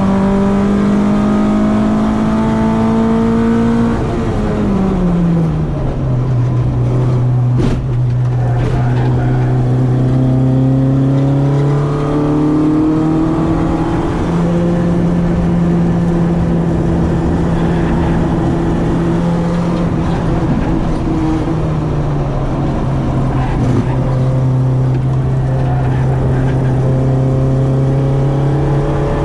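Citroen AX 8-valve engine on twin Weber 40 carburettors running hard on track, its note climbing slowly under acceleration, falling sharply about four seconds in and again near the end of the second climb as the driver changes gear or brakes.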